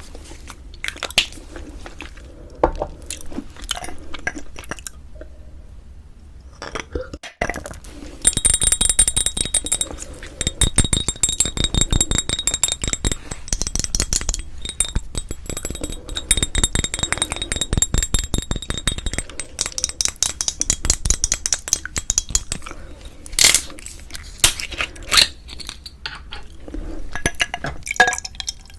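Close-miked eating sounds: wet chewing and crunching with occasional clinks of tableware. After a brief break about seven seconds in, a long stretch of dense, rapid crackling chewing.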